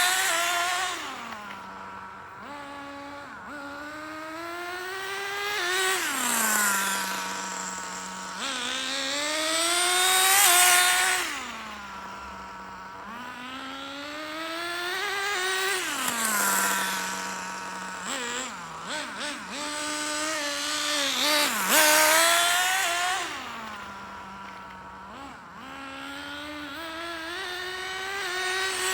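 The SH-18 nitro engine of an HPI RS4 3 Evo RC car running a break-in tank as the car makes repeated passes. It winds up in pitch and gets louder every five or six seconds, then drops back to a steady idle as it brakes and coasts.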